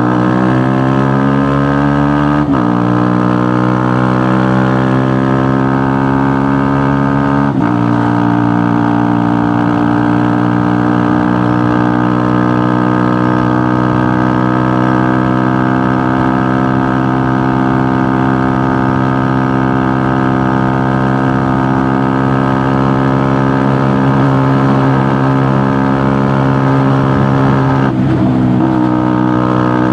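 2018 KTM Duke motorcycle with a GPR exhaust accelerating: the engine note climbs, drops sharply at an upshift about two and a half seconds in, climbs again to a second upshift about seven and a half seconds in, then holds a steady cruise. The note changes again near the end.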